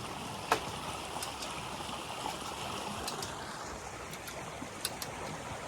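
Steady rush of flowing water, with one sharp knock about half a second in and a few faint ticks later.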